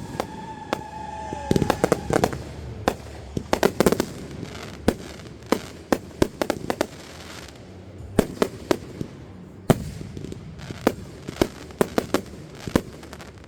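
Fireworks going off: many sharp bangs and pops at irregular intervals, with a falling whistle over the first two seconds.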